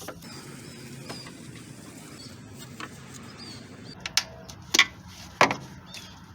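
Three sharp clicks, about four, five and five and a half seconds in, from hoses and plastic intake tubing being worked loose on a truck engine, over faint high bird chirps.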